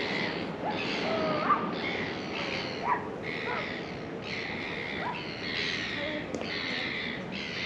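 Birds calling around the harbour, short calls one after another over a steady background hubbub.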